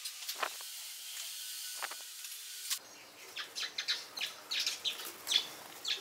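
A steady hiss with a few quick falling sweeps, then, from about three seconds in, small birds chirping in rapid short calls.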